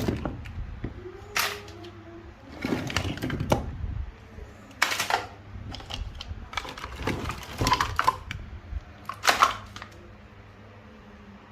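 Irregular knocks and clatter of hard objects being handled, a few sharp hits roughly every second or two.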